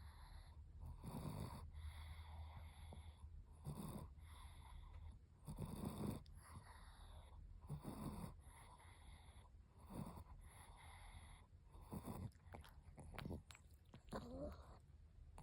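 Chihuahua snoring, one snore roughly every two seconds.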